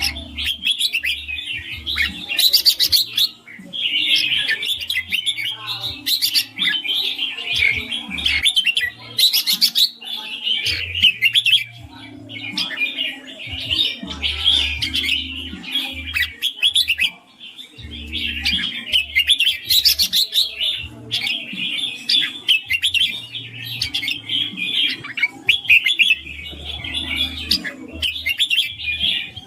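Red-whiskered bulbul singing rapid, lively chirping phrases almost without pause, with a brief break about three and a half seconds in and another near the middle.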